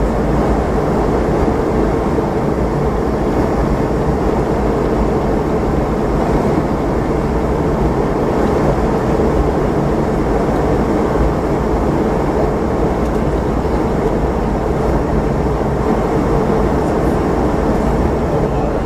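Steady cabin noise of a Boeing 717-200 in flight: airflow over the fuselage and the drone of its rear-mounted Rolls-Royce BR715 turbofans, mostly low rumble with a faint steady hum.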